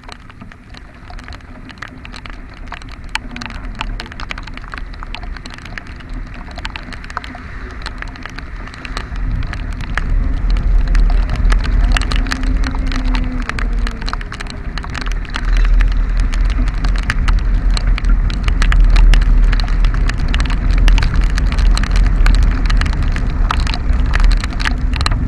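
Heavy rain pattering, with many sharp individual drop hits. A low rumble underneath swells about ten seconds in and again around sixteen seconds.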